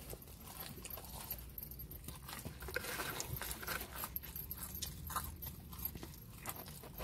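Close-miked eating sounds: pizza being chewed, with small scattered clicks and scrapes as a pepperoni slice is pulled from its cardboard box, over a low steady hum.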